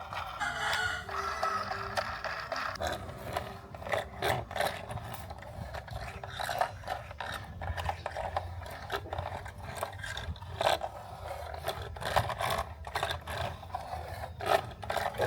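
Irregular scraping and rubbing with many small clicks and knocks, hard objects being handled against each other.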